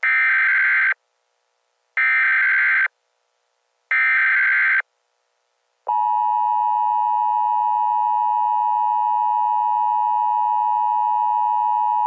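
Emergency Alert System SAME header: three one-second bursts of buzzy digital data tone, about two seconds apart. About six seconds in, the steady two-tone EAS attention signal starts.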